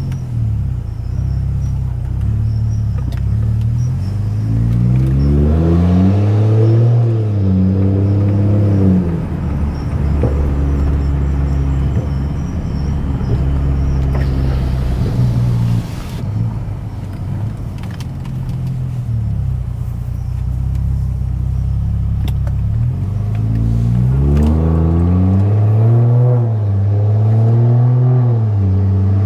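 BMW F10 535i's tuned turbocharged straight-six running through a loud exhaust, pulling hard through the gears twice, in the first several seconds and again near the end, its pitch climbing and dropping back at each upshift. Between the two pulls it settles into a steady low drone while cruising.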